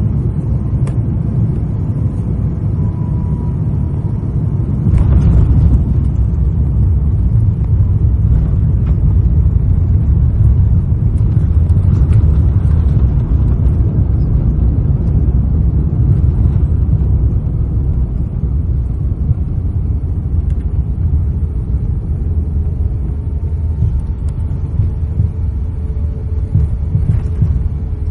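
Low rumble of an Airbus A350-900 on its landing roll, heard inside the cabin. It grows louder about five seconds in and eases off in the second half.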